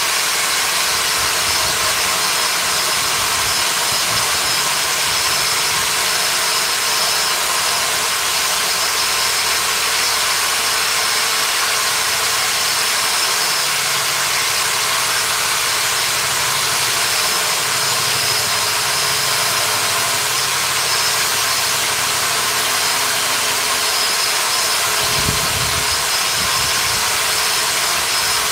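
A workshop power tool or machine running steadily, with a strong even hiss and a few steady whining tones.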